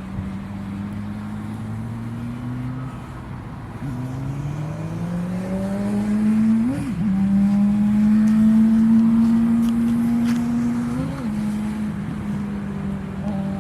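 Boeing 777-300ER jet engine running, a steady drone whose pitch rises smoothly about four seconds in and then holds at a higher, louder level.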